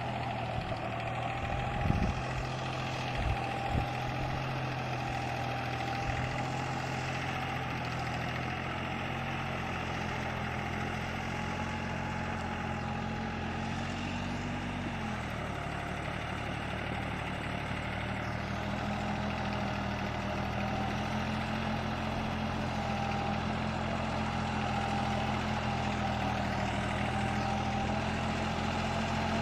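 Diesel engine of a Deutz-Fahr Agrolux 50 4WD tractor running steadily, with a few sharp knocks in the first few seconds. Its note shifts about halfway through, and it grows slightly louder toward the end.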